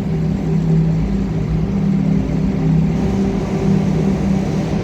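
Car on the move: a steady engine hum with road and tyre noise, even throughout.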